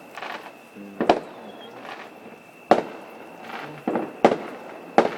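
Fireworks bursting: about five sharp bangs at uneven intervals, each with a short trailing crackle.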